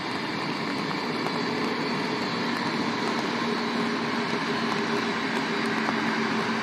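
Work train rolling past on the track: a steady rumble of locomotives and loaded flat wagons on the rails, with a steady low hum joining about a second in.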